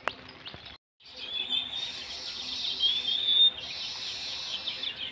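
Birds chirping: many short overlapping chirps and a few gliding notes, broken by a brief gap about a second in.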